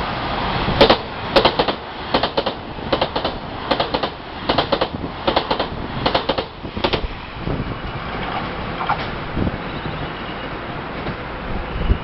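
A train running through the station, its wheels clacking over rail joints in quick pairs, bogie after bogie, for several seconds. The clacking stops about seven seconds in, leaving a steady rumble. No horn sounds.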